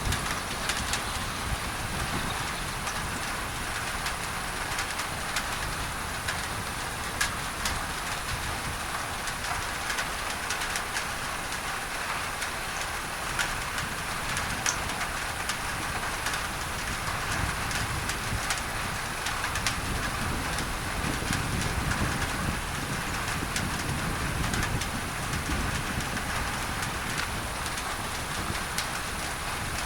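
Steady rain on a tin roof blended with pink noise: a constant even hiss with many sharp drop ticks scattered through it and a low rumble underneath.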